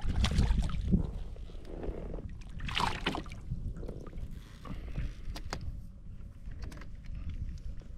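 Handling noise on a fishing kayak: irregular knocks and rustles against the hull, with short splashy sounds. The strongest comes about three seconds in.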